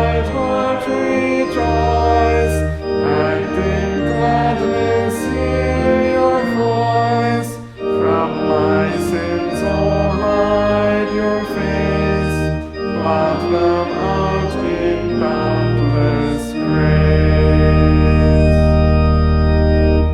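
Church organ accompanying a congregation singing a psalm, with steady chords and bass notes changing about once a second. It ends on a long held final chord for the last few seconds, which cuts off sharply.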